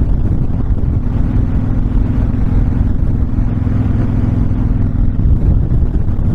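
Honda VTX1300 cruiser's V-twin engine running steadily on the move, with wind rushing over the microphone.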